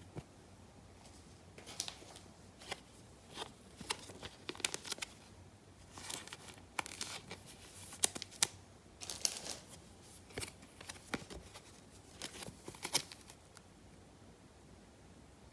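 Trading card packs and cards being handled: a run of short crinkles, tears and clicks from the pack wrappers and cards, starting about a second and a half in and dying away near the end.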